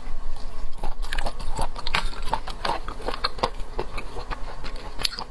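Close-miked mouth sounds of eating seafood: wet lip smacks and clicking chewing, coming thick and irregular.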